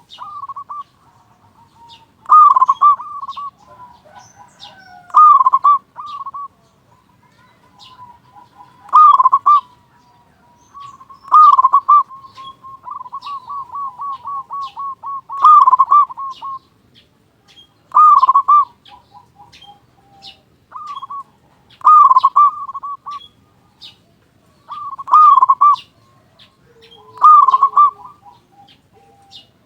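Zebra dove (perkutut) singing: a loud, full cooing phrase repeated about every three seconds, about nine times, with softer quick runs of notes in between.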